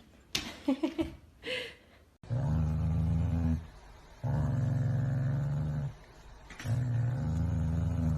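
Dog growling: three long, low growls, each about a second and a half, with short pauses between them. Brief voice sounds come before them in the first two seconds.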